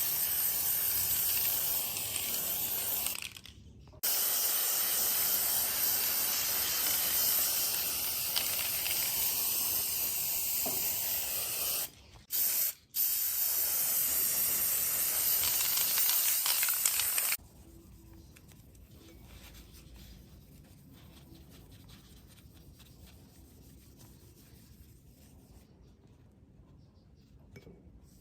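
A steady spray hiss in long bursts, with a short pause about three seconds in and two brief pauses around twelve seconds. It stops about seventeen seconds in and is followed by faint handling sounds.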